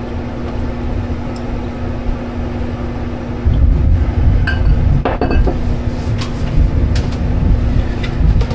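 Steady electric fan hum with a low rumble, and a few light clinks of hard items knocking against glass or ceramic, most of them between about three and a half and five and a half seconds in.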